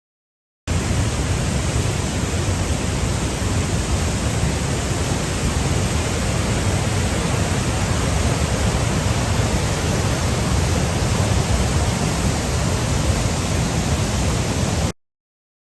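Steady rushing roar of fast-moving floodwater. It starts abruptly about a second in and cuts off suddenly just before the end.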